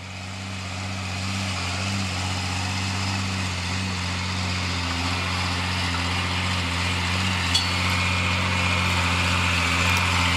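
Heavy truck engine running steadily with a low drone, fading in over the first couple of seconds.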